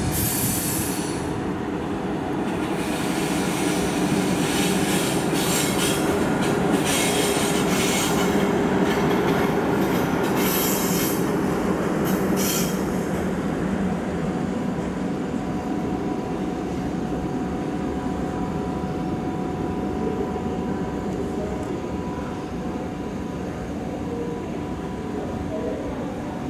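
Locomotive-hauled train of Intercity coaches rolling slowly past: a steady wheel squeal with a thin high ringing tone over the rumble of the wheels, and bursts of clatter over the rail joints and points in the first half. It is loudest about 8–10 seconds in and fades slowly toward the end.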